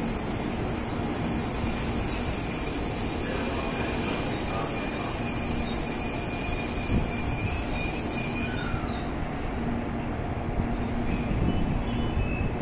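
N700A Shinkansen train braking into a station and slowing almost to a stop: a steady rolling noise with a faint steady low tone. The high hiss drops away about nine seconds in as it slows.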